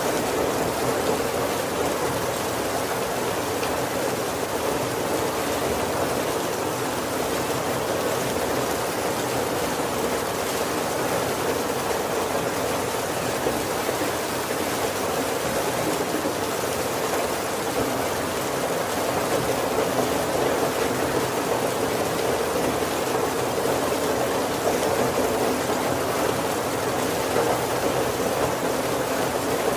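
Steady heavy rain falling on the roof and windows of a wooden carriage, an even, unbroken patter.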